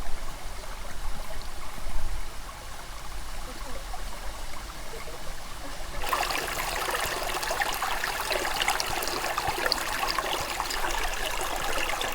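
Flowing water, a steady noise of running water that turns suddenly louder and brighter, with a dense crackle, about halfway through.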